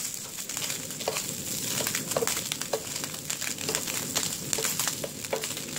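Slices of Spam sizzling in a nonstick frying pan: a steady hiss with many small crackling pops of fat.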